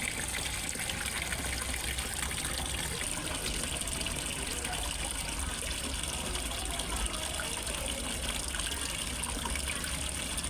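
Water falling into a fish pond: a steady splashing rush and trickle of a small waterfall, with a low rumble underneath.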